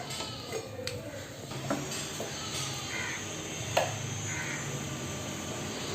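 A few sharp metallic clicks as a motorcycle's front brake caliper is seated over the disc, over a low steady hum.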